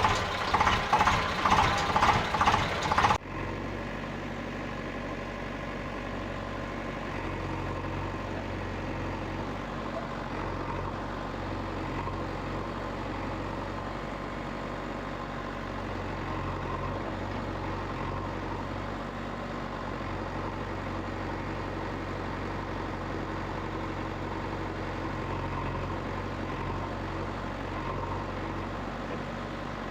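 An engine running steadily at idle. For the first three seconds a louder pulsing sound of about three beats a second plays over it, then cuts off suddenly.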